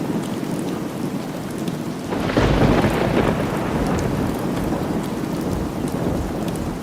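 Steady rain falling, with a rumble of thunder that swells about two seconds in and slowly dies away.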